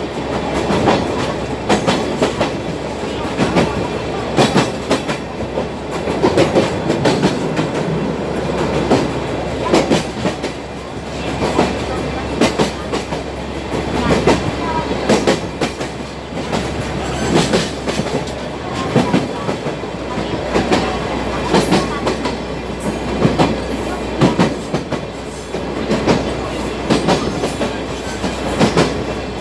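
Sagano Trolley Train carriage running along the line: a steady rumble with the wheels clacking and knocking over the rails throughout.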